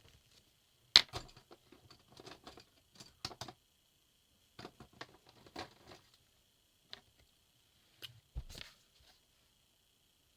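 Colouring pencils clicking and clattering as they are handled and sorted through, in irregular clusters of sharp clicks, with a soft thump about eight seconds in.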